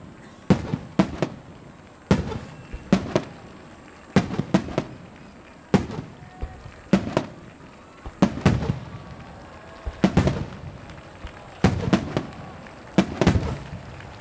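Aerial firework shells bursting overhead: an uneven run of sharp bangs, one or two a second and often in quick pairs, each trailing off in an echoing rumble.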